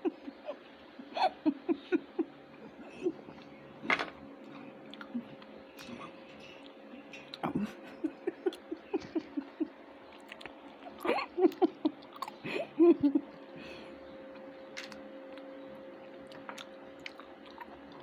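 Close-up chewing and mouth sounds of people eating, in short runs of quick rhythmic pulses. A few sharp clicks of food or dishes are heard, and a faint steady hum starts a few seconds in.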